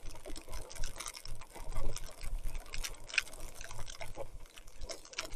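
Mountain bike tyres churning through wet mud and water, with irregular splashes and squelches over a low rumble.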